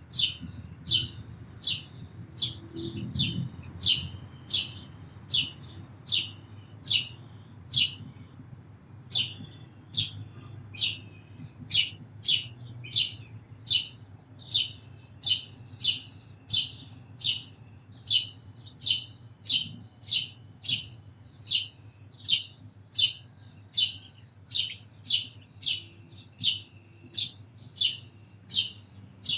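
A single house sparrow chirping over and over in a steady rhythm, about one and a half cheeps a second, with a brief pause about eight seconds in.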